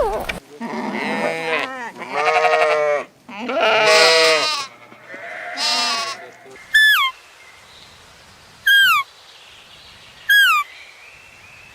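Livestock bleating: four long, wavering bleats one after another. They are followed by a short, high, falling call repeated three times, about every couple of seconds.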